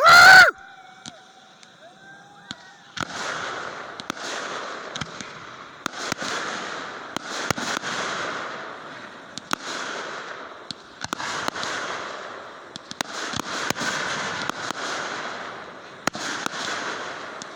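Fireworks going off: repeated hissing swells with sharp cracks and pops through them, after a short, very loud high-pitched sound at the very start.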